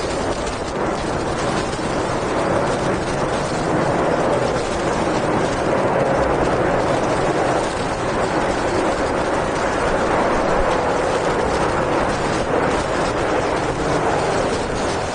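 Steady loud roar of the Emirates Airbus A380's four jet engines, swelling and easing slightly.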